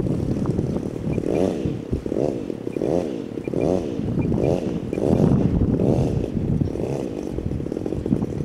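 A model airplane's motor is throttled up and down over and over in short bursts, its pitch rising and falling about once every second. The plane's tail wheel is dragging in the grass instead of rolling.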